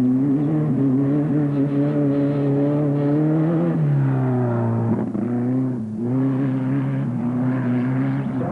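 Off-road race vehicle's engine running under load at a steady high pitch. The pitch falls about four seconds in and dips briefly again near six seconds before holding steady.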